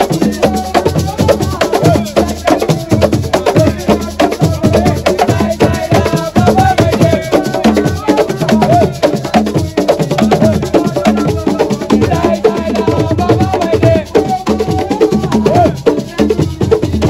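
Assiko music: fast live percussion of drums and a sharp wood-block-like beat, with a wavering sung melody over it.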